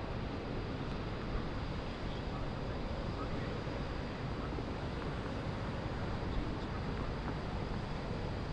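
Steady city ambience from high above a river: a low, even rumble of distant traffic and river boats, with a wash of wind.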